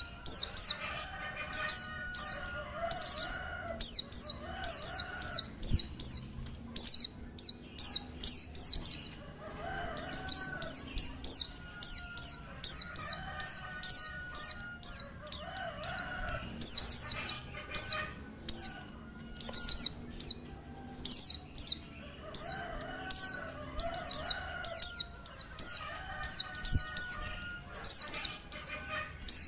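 Female white-eye (pleci) calling: rapid runs of short, high, falling chirps, one burst after another without a break, with fainter, lower bird calls behind them. This is the female's call used to lure male white-eyes into singing.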